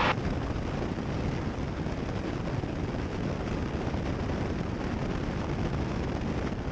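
Cessna 172's engine and propeller droning steadily in flight, heard through the cockpit headset intercom as an even, unchanging hum.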